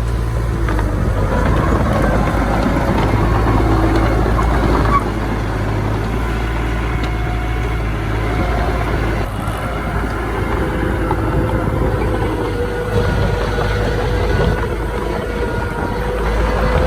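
Diesel engines of heavy earthmoving machinery, a bulldozer and dump truck, running steadily with a deep rumble; the level dips slightly about five seconds in.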